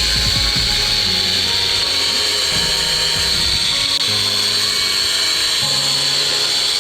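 A power tool running steadily with a high whine and hiss, over background music with a bass line.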